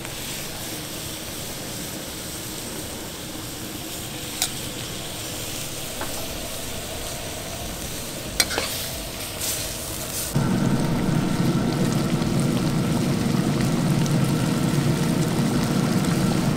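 Shrimp and sauce sizzling in a wok over a propane burner, with a metal spatula clicking against the pan a few times as it is stirred. About ten seconds in, a louder steady low rumble sets in and runs on under the sizzling.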